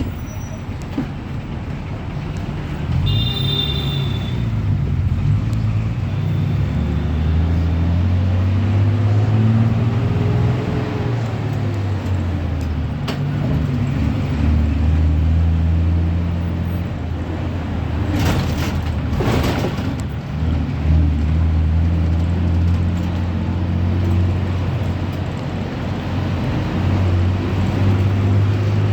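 Ashok Leyland JNNURM city bus engine running under way, its pitch rising and falling as the bus accelerates, shifts and eases off. Two short hisses come about two-thirds of the way through.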